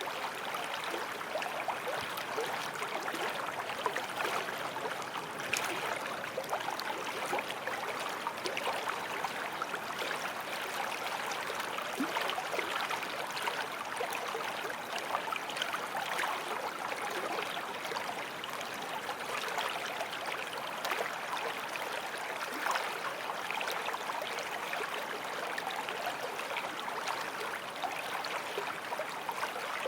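Forest stream flowing and splashing over rocks in a steady babble.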